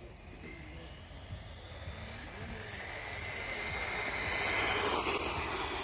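Remo Hobby 1631 1/16 monster truck with a 2440 brushless motor on a full-speed run: a rising motor whine with tyre noise builds up, peaks about five seconds in as the truck passes, then begins to fade.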